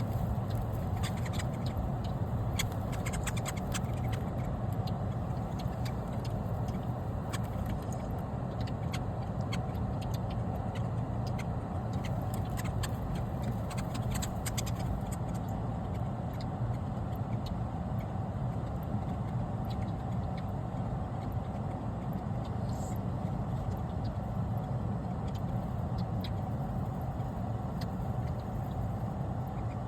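A steady low rumble with scattered faint clicks and ticks over it.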